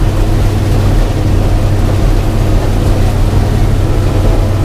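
Combine harvester running steadily under load while harvesting corn, a constant low engine drone with machinery noise over it.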